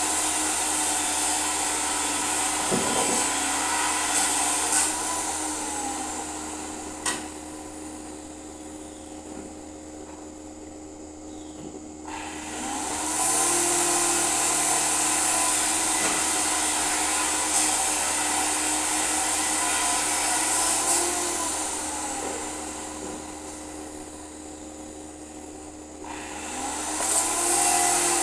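Electric power tool running with a steady high hiss over a constant motor tone, loud at first, dropping away from about five seconds in, loud again from about thirteen to twenty-one seconds, dropping once more, and coming back near the end.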